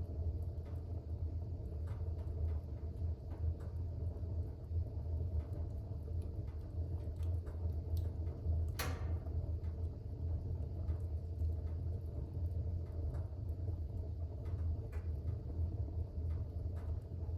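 Fire burning in a fireplace: a steady low rumble of the flames with scattered small crackles, and one sharper pop a little before halfway.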